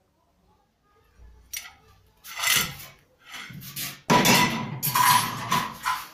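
Irregular clattering and knocking of hard objects being handled, growing louder and busier in the second half.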